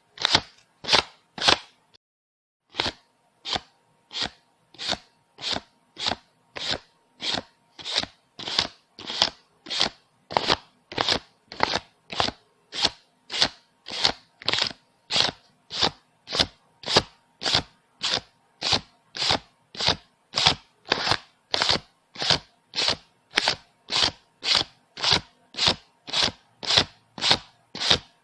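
Paper banknotes being counted by hand, each bill flicked off the stack with a short crisp snap, about three every two seconds in an even rhythm. There is one brief pause about two seconds in.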